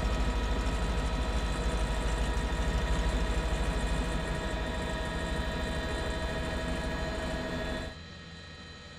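News helicopter's rotor and turbine noise heard from inside the cabin: a fast, even low beating with a steady whine above it. About eight seconds in it drops off abruptly to a much quieter hum.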